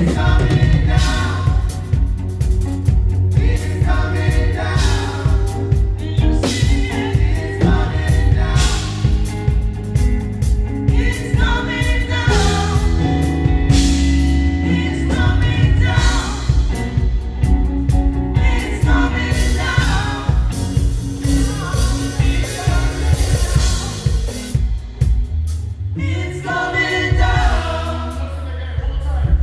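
Live gospel praise music: a group of singers over bass and a drum kit, with a steady beat; the band thins out briefly near the end.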